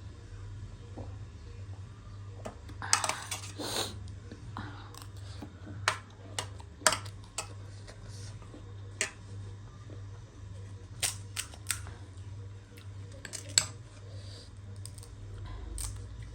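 Close-up eating sounds: crisp snack food cracking and crunching between the teeth in irregular sharp clicks, with a longer crunching burst about three seconds in, over a steady low hum.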